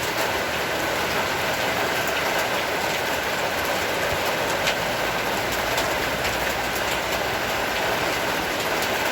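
Heavy rain shower falling steadily: an even hiss with scattered sharp taps of drops.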